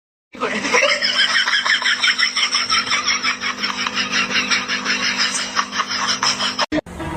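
A person laughing hard in fast, breathy pulses, about seven a second, for several seconds, stopping abruptly near the end.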